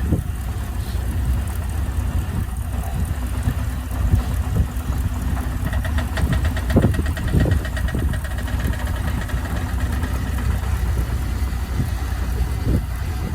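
Heavy earthmoving machine's engine running with a steady low rumble. A few knocks and a rapid run of ticks come about halfway through.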